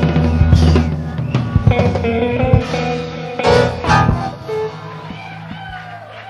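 Live jazz-rock band playing the closing bars of an instrumental, electric guitar over sustained bass notes with sharp hits through the first four seconds. The band then stops and the last notes ring out and fade.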